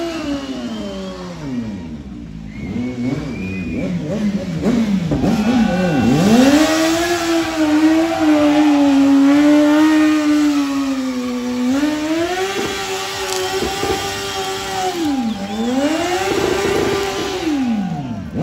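BMW S1000R inline-four sportbike engine revved hard over and over, its pitch dropping and climbing again and held high for several seconds at a time, as in a stunt burnout or drift. A rushing hiss runs alongside the engine for several seconds in the middle.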